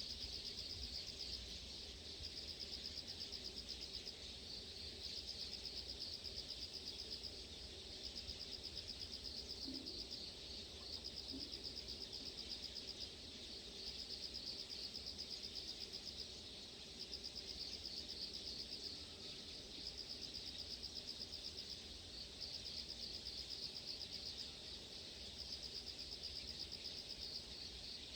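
Insects trilling: a high, rapidly pulsed song in repeated phrases of two to three seconds with short breaks, over a faint low rumble.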